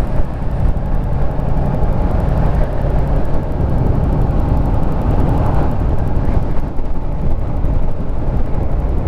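Harley-Davidson Street Rod 750's V-twin engine running steadily under way, its low note holding even throughout.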